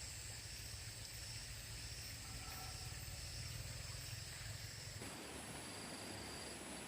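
Faint steady outdoor background: a low rumble and hiss under high, steady whining tones. The background changes abruptly about five seconds in.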